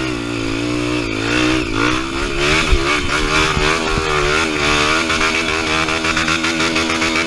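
Off-road motorcycle engine running hard, its pitch rising and falling as the throttle is worked, with scattered short knocks.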